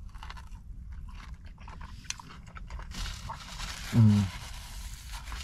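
Chewing and small mouth clicks of someone eating fried chicken, then a paper napkin rustling from about three seconds in. A brief hummed voice sound comes about four seconds in.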